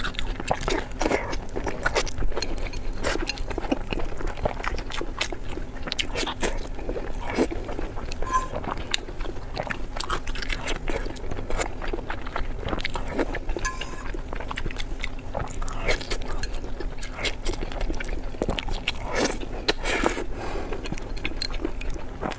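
Close-miked eating: biting and chewing with many short crunchy, wet clicks, over a faint steady hum.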